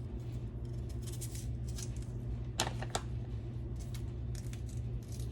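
Knife slicing through an onion on a cutting board: irregular crisp cuts and taps, with two louder strikes about two and a half and three seconds in.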